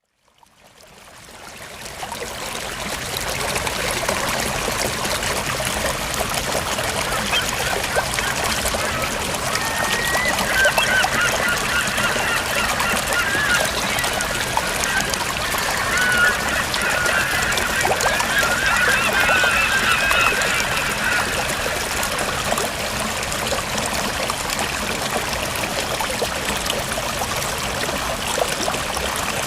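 Flowing river water rushing steadily, fading in over the first couple of seconds. Through the middle stretch, birds call repeatedly over the water noise.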